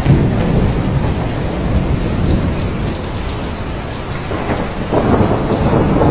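Heavy rain falling steadily with rolling thunder rumbling underneath, the rumble easing in the middle and swelling again about five seconds in.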